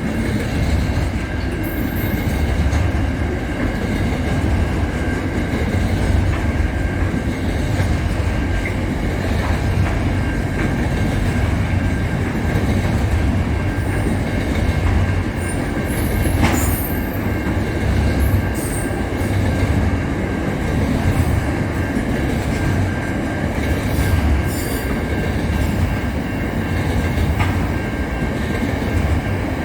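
A train running on rails: a steady low rumble with a thin, steady high whine over it and a few sharp clicks, the clearest about sixteen seconds in.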